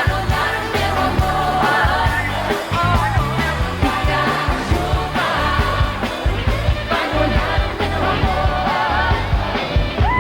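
Pop song performed live by a male-female vocal duo with a band: sung vocals over a steady drum beat and heavy bass.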